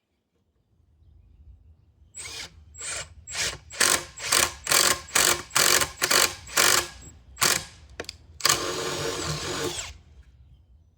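Power drill boring dowel holes in wood, run in about a dozen short bursts, roughly two a second, then one longer run of about a second and a half near the end.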